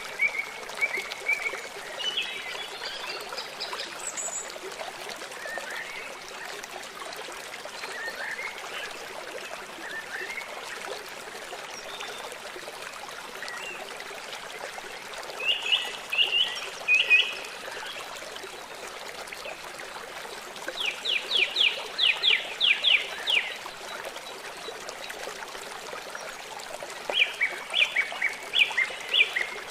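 River water running steadily, with songbirds singing over it: a few scattered chirps, then short repeated phrases about halfway through, a quick run of falling notes about two-thirds through, and a repeated two-note phrase near the end.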